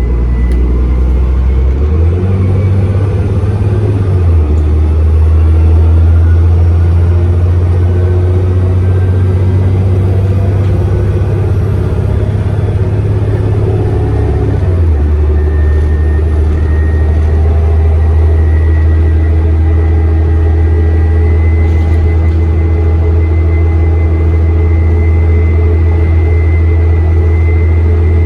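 Diesel engine of a service bus heard from inside while under way, a steady low drone that changes note about 2 s in, again near 4.5 s and around 15 s as the bus changes speed or gear. A thin turbocharger whistle sits above it, clearer in the second half.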